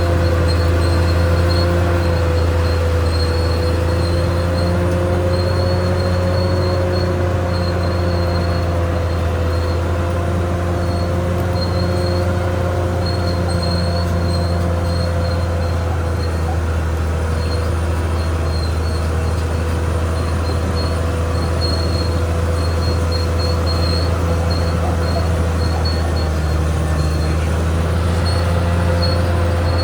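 Caterpillar D6R XL crawler bulldozer running steadily under load: a deep diesel drone with a high whine above it that wavers slightly in pitch.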